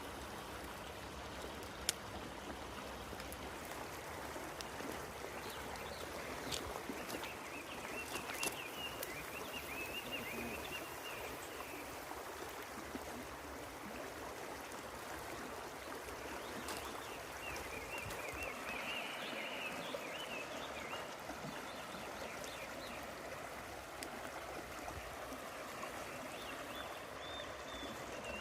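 River water flowing steadily. High warbling chirps come and go a few times, and there are a few sharp clicks.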